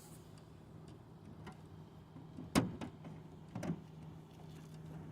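Two sharp knocks about a second apart, the first louder, over a steady low hum.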